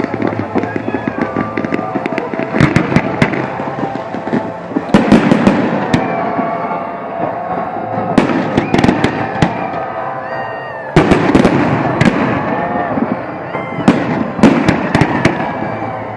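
Large fireworks display: volleys of sharp bangs and crackling that come in dense clusters every two to three seconds, the loudest about eleven seconds in, over a steady bed of people's voices.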